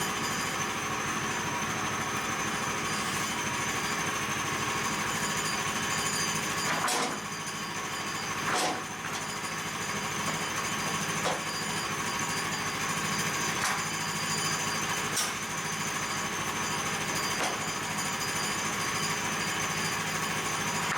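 Woodland Mills HM122 bandsaw sawmill running steadily, its engine pulsing fast and its blade cutting through a stack of boards, with a few sharp clicks along the way.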